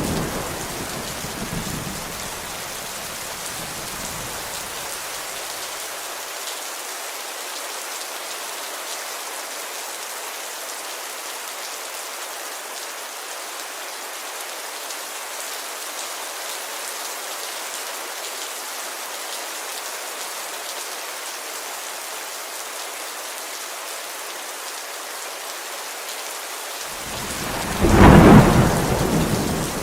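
Steady heavy rain pattering on a window, with the rumble of thunder dying away in the first few seconds and a loud thunderclap near the end.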